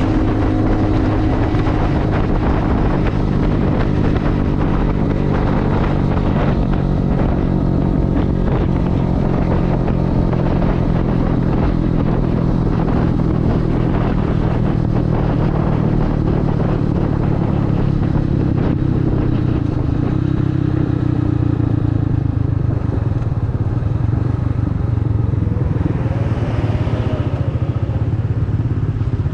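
Motorcycle engine running steadily, heard from the rider's seat.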